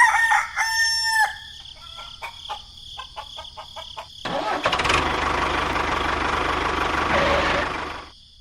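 A rooster crows once, then a series of clicks and ticks, then a small motor starts up about four seconds in and runs steadily for about four seconds before cutting off.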